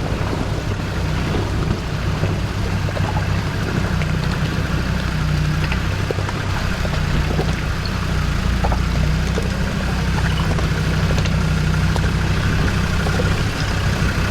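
Off-road 4x4's engine running at low, fairly steady revs, with a few light clicks and knocks scattered through.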